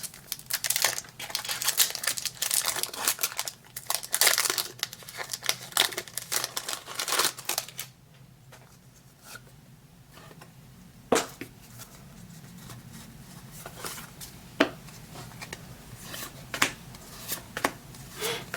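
Foil Pokémon booster-pack wrapper crinkling and being torn open: a quick run of noisy rustles for about eight seconds, then quieter, with a few sharp clicks as the pack is handled.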